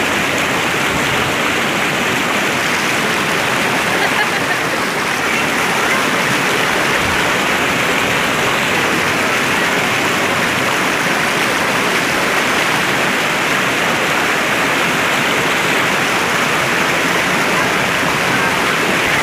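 Spring water rushing in a steady flow, an even hiss of running water.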